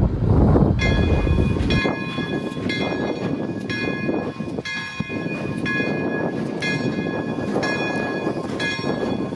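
A steam locomotive's bell ringing steadily, about one stroke a second, over the noise of the passing train. A low rumble fades out in the first couple of seconds.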